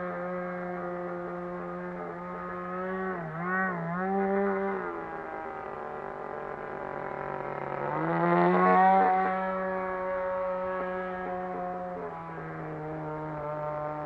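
RCGF 20cc single-cylinder two-stroke petrol engine of a Seagull Harrier 3D model aeroplane running in flight, its pitch wavering with throttle changes. About eight to nine seconds in it rises in pitch and grows loudest, then settles back to a steady note.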